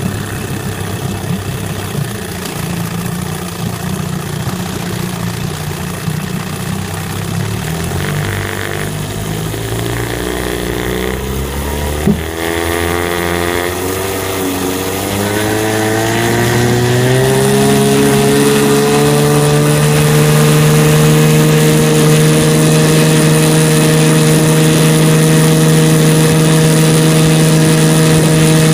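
1967 Evinrude 9.5 hp Sportwin two-cylinder two-stroke outboard running steadily at low speed, with a sharp knock about twelve seconds in. It then revs up over about six seconds and holds a steady high-speed run. The owner suspects the motor has an exhaust leak.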